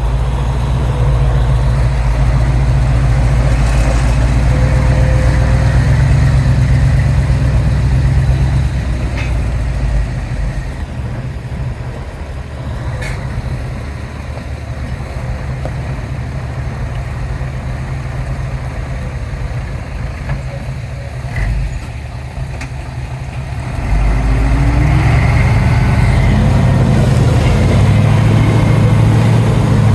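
Heavy diesel engines of a dump truck and bulldozer working, loud for the first several seconds, dropping lower through the middle, then rising again about three-quarters of the way through. A few short sharp sounds come in the quieter stretch.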